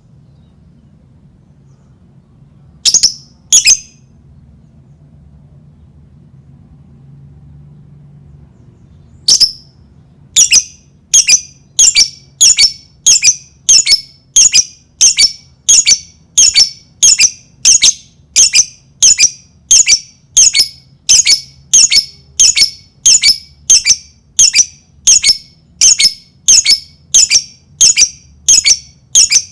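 Lovebird giving short, shrill, piercing calls: two about three seconds in, then, after a pause, an even run of repeated calls a little under two a second. It is a lure call of the kind used to draw in and set off other lovebirds.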